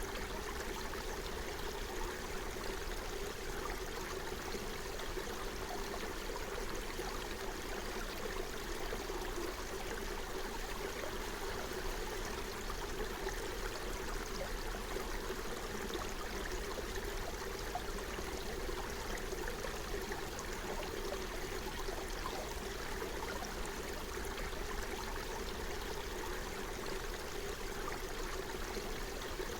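Forest brook flowing steadily, an unbroken rush of running water.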